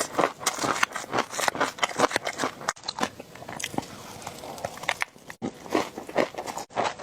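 Close-miked eating for ASMR: crunchy, crackly bites and chewing in quick succession, broken by a few abrupt short gaps.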